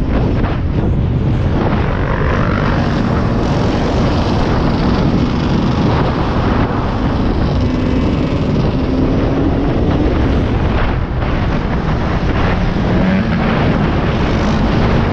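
Motorcycle engine running while riding, with heavy wind noise over the microphone. The engine pitch rises a few times as the bike accelerates, most clearly about two-thirds of the way through and near the end.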